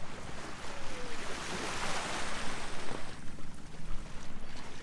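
Sea water rushing and splashing along the hull of a sailboat under way, swelling and easing as the boat moves through the swell.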